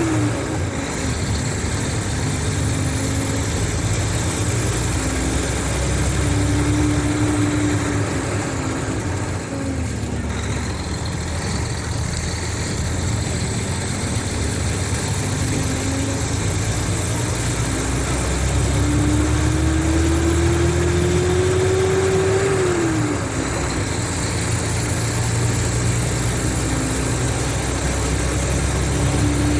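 Mercedes-Benz O500RSD coach engine and drivetrain running under way. A steady low rumble carries a whine that climbs and falls several times with engine speed, dropping back sharply at a few points.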